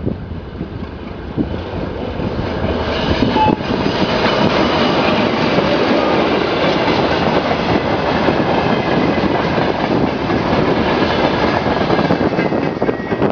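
ChME3 diesel shunting locomotive and its train running past on the track. The noise of engine and wheels swells over the first few seconds, then holds steady.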